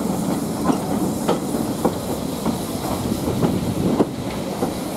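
Steam-hauled passenger train moving slowly along a station platform, heard from an open carriage window: a steady rumble of the coaches with sharp knocks from the wheels about every half second or so.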